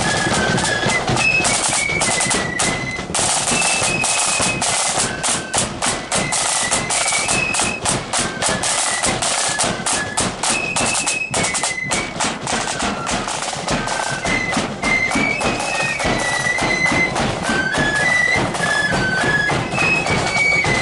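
Marching flute band playing a tune: a line of flutes carries a high melody over steady, rapid drumming.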